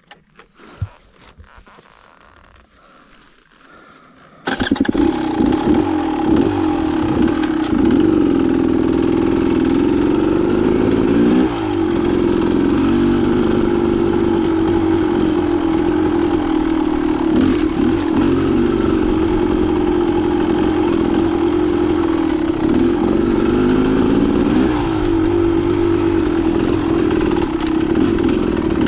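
Dirt bike engine starting about four seconds in after a few faint clicks, then running loudly as the bike rides, its pitch rising and falling with the throttle.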